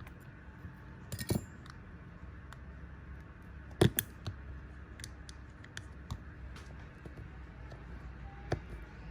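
Small hand tools and parts clicking and tapping against each other during smartwatch repair work, with scattered light metallic taps; the sharpest is about four seconds in. A steady low hum runs underneath.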